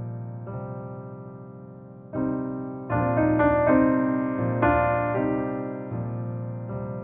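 Slow, gentle piano music: soft chords struck every second or so, each note ringing on and fading before the next.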